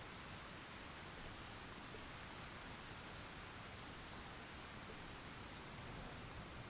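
Steady rain falling, an even hiss of drops with faint patter.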